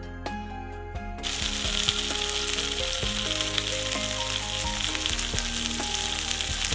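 Chicken tikka skewers searing in melted butter in a pan: a steady sizzle that cuts in suddenly about a second in. Background music plays throughout.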